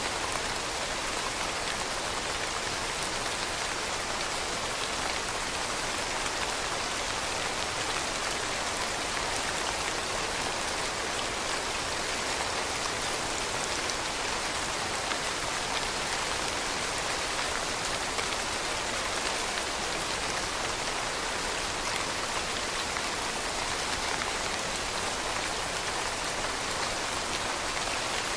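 Steady rain falling on leaves: an even patter of many small drops, unchanging throughout.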